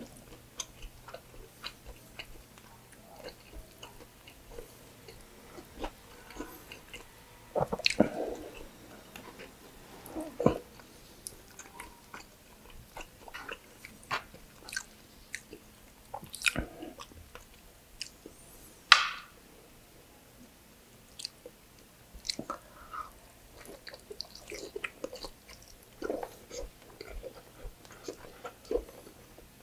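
Close-miked mouth sounds of a man eating pork belly adobo with rice: chewing, with wet smacks and clicks at irregular intervals. One louder, slightly longer mouth sound comes a little past the middle.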